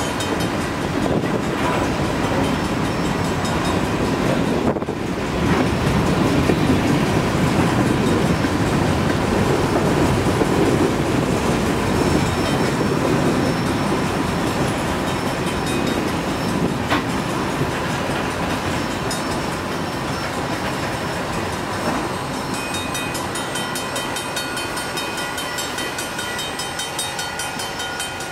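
Freight train of tank cars and covered hoppers rolling steadily past, its wheels running over the rails in a continuous rumble, with wind on the microphone.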